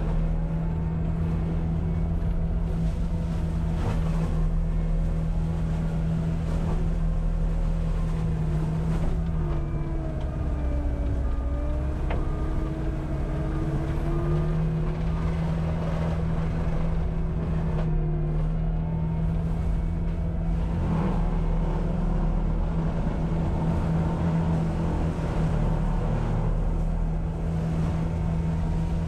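Cat 259D compact track loader's diesel engine running hard under load, driving a forestry mulcher head. About ten seconds in, the engine's pitch sags for a few seconds as the mulcher takes a load, then climbs back.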